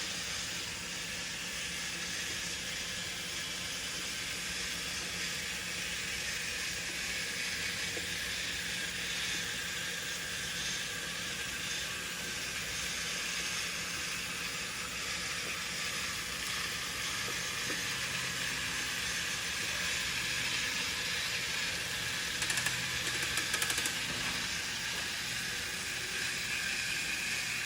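Two vintage Remco Mighty Mike toys, a Jeep and a truck, one fitted with brass gears, running on their small battery motors, with a steady whir of motors and plastic and brass gear trains as they climb the toy track. A few short clicks come near the end.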